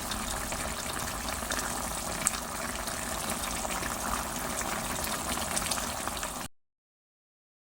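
Pot of chicken tinola soup boiling: a steady bubbling hiss with small pops, cutting off abruptly about six and a half seconds in.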